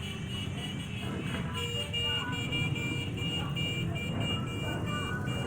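A vehicle's electronic alarm sounding a high two-pitch pattern, repeating about three times a second, over the low rumble of vehicle engines; it cuts off near the end.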